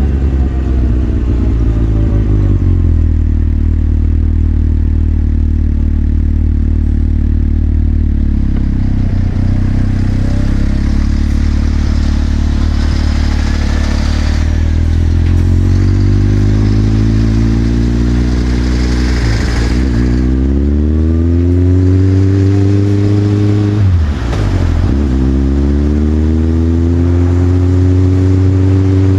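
Motorcycle engine heard from the rider's seat. It eases off at the start, runs steadily, then pulls away, its pitch climbing through two quick gear changes about two-thirds in and a few seconds later.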